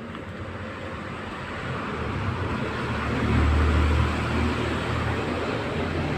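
Car engine running steadily, its low hum growing louder about three seconds in and easing off a second later.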